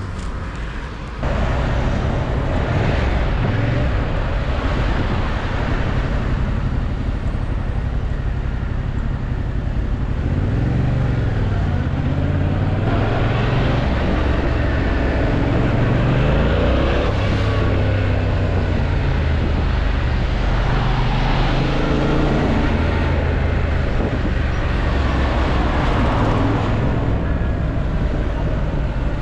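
Yamaha MT-07's 689 cc parallel-twin engine heard from the rider's position while riding, its revs rising and falling several times as it accelerates and shifts gear, over steady wind and road noise. It gets abruptly louder about a second in.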